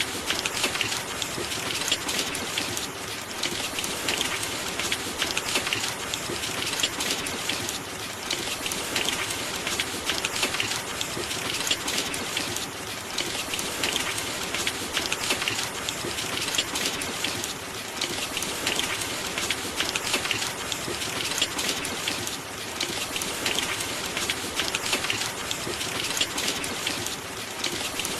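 Steady rain: a constant hiss filled with a dense patter of drops, swelling and easing slightly.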